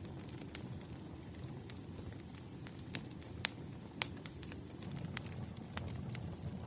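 Wood fire burning: a steady low rumble of flames with irregular sharp crackles and pops of burning logs, the loudest pops about three and a half and four seconds in.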